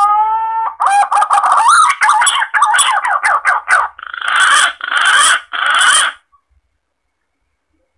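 Green pigeon (punai) call used as a hunting lure. A rising whistled note is followed by a quick run of wavering, warbling whistles, and the phrase ends in three harsh, rasping notes about six seconds in.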